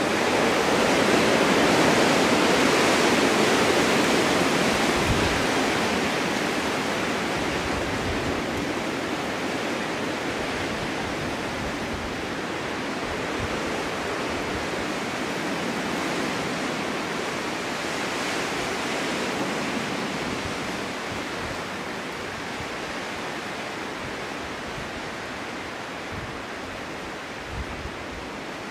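Snowstorm wind blowing in an even rush, swelling to a strong gust in the first few seconds and then slowly easing. A few brief low thumps break through.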